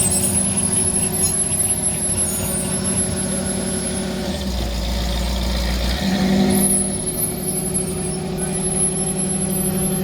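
Vehicle engine idling steadily, with a thin high-pitched whine that drops out about three seconds in and returns after about six seconds, and a brief low rumble about halfway through.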